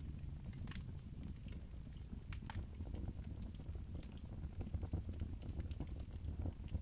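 Wood fire in a fireplace crackling, with irregular sharp pops over a low, steady rumble.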